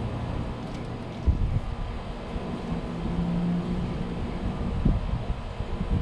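Low steady rumble with wind gusting on the microphone, sudden low thumps about a second in and near the end, over a faint steady hum.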